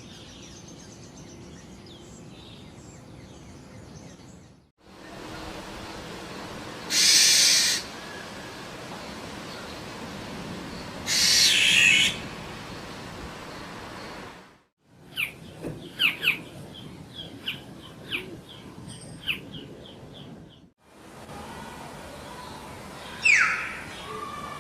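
Birds calling, in several short recordings joined with brief silent cuts: faint chirping at first, then two loud harsh hissing screeches about a second long each and four seconds apart, then a run of quick sharp chirps, then loud whistled notes that slide downward near the end.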